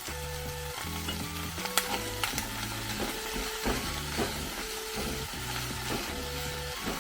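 Food sizzling in a frying pan, with scattered sharp clicks of a utensil against the pan, over soft background music with repeating low notes.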